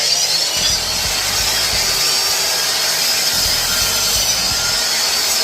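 Power miter saw running and cutting through wood for a frame miter cut: a loud, steady blade-and-motor noise, with the pitch starting to fall near the end as the saw winds down.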